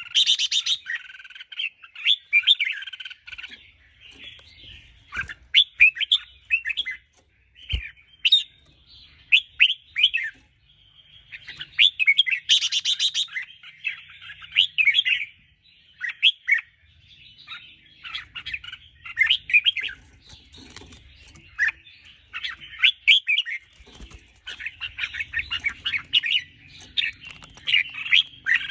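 Red-whiskered bulbuls singing: clusters of quick, chattering whistled phrases, one after another with short breaks between them. This is the lively song played to excite caged bulbuls.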